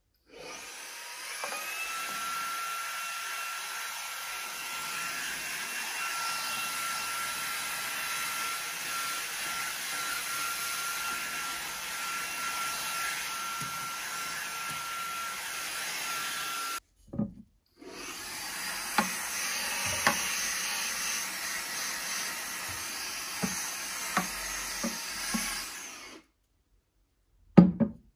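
Vacuum cleaner running with a steady whine that rises as the motor spins up. It is switched off for about a second partway through, then runs again with occasional bumps and clicks, and stops near the end, followed by a couple of knocks.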